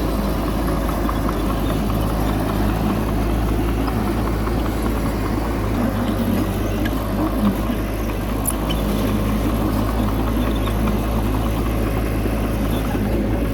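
Heavy diesel earthmoving machinery engine running steadily at a constant pitch, with a brief light knock about seven and a half seconds in.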